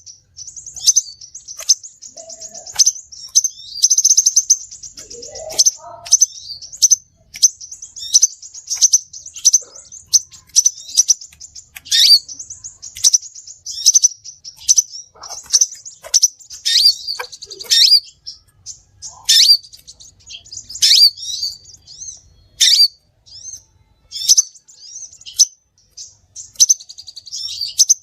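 Crimson sunbird (sepah raja) calling: a steady run of high, sharp chirps and quick downward notes, broken by rapid buzzy trills.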